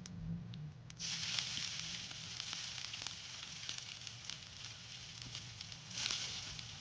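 Food sizzling in hot oil in a pan on a gas stove, with crackling pops. It starts suddenly about a second in and is briefly louder near the end.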